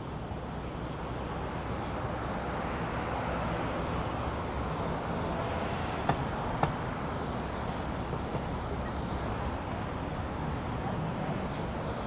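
Steady city traffic noise, cars passing along a busy street. About six seconds in come two sharp clicks half a second apart.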